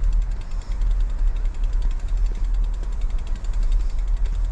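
Wind buffeting the microphone of a camera on a moving road bike: a steady low rumble.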